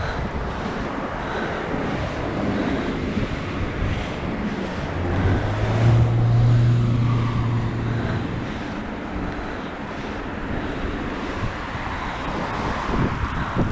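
Wind buffeting the microphone over road noise during a bicycle ride, with a motor vehicle going by as a low hum, loudest about five to eight seconds in.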